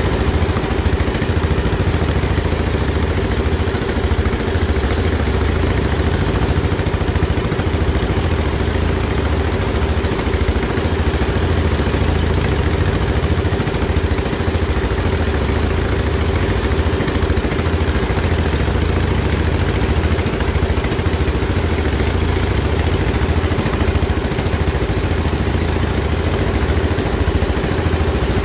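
An engine running steadily at an even speed, with a constant low pulsing hum and no change in pitch.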